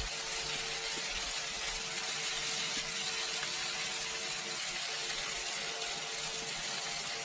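Chopped vegetables frying in a pan: a steady sizzle and hiss as they are stirred, with a faint steady hum beneath.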